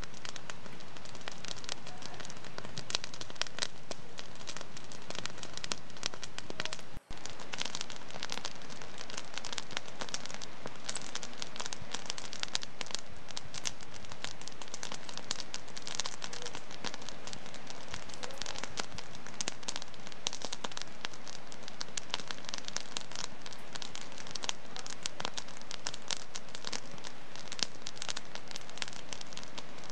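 Wood fire in a fireplace crackling steadily, with dense small pops and snaps over a soft hiss. The sound cuts out for an instant about seven seconds in.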